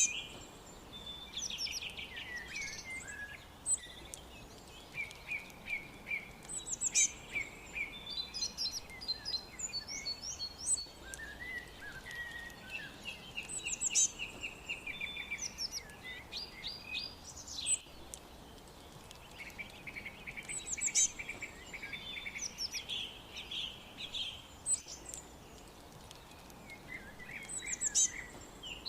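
Several birds chirping and singing over one another in quick, overlapping chirps and trills. One high song phrase comes back about every seven seconds.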